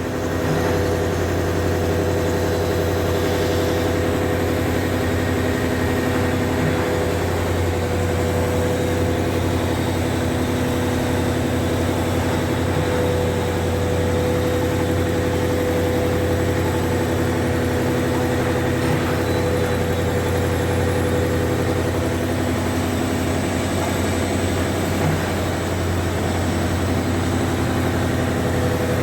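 Electric high-temperature furnace running: a steady, unbroken industrial hum with a strong low drone and a few steady tones above it.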